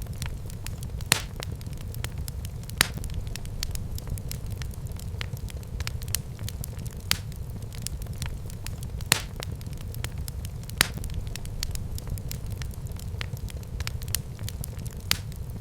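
Fireplace fire crackling: a steady low rumble of the flames with frequent small crackles and a handful of sharper, louder pops scattered through.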